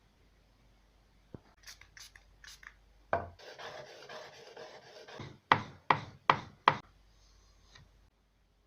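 Hand woodworking on wood: a few light taps, a hard knock, then about two seconds of scraping or rasping, ending in four sharp knocks in quick succession.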